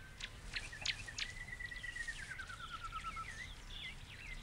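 Birds calling: a long run of quick repeated notes that holds its pitch, then slides down and speeds up into a trill, with short sharp chirps and whistles before and after it, over a low background rumble.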